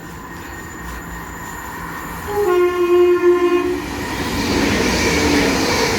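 A Class 175 diesel multiple unit sounds its two-tone horn about two seconds in, a higher note followed by a lower one. The noise of the train passing through then builds.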